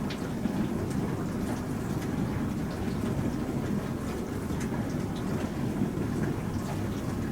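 Bosch Serie 4 SMS46MW05G dishwasher running a wash cycle: a steady rush of water sprayed around inside the tub, with faint scattered ticks and splashes.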